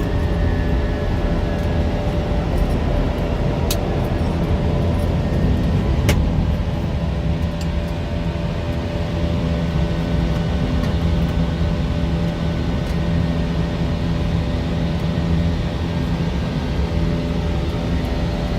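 Airbus A320 flight-deck noise during the climb: a steady rumble of engines and airflow with several constant hums. Two sharp clicks stand out, about four and six seconds in.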